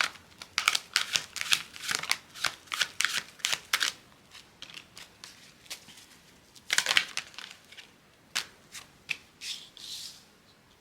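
Tarot cards being shuffled by hand, a quick run of flicks for the first four seconds, then scattered card snaps and a brief rustle about seven seconds in.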